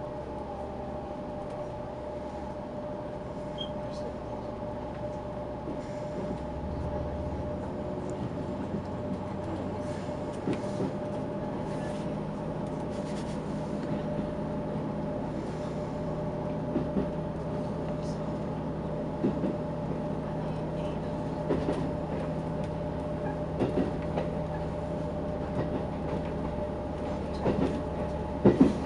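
Diesel train pulling away from a station and gathering speed, heard from inside the carriage: a steady engine and running hum with a few held tones. Rail-joint clicks come more and more often in the second half.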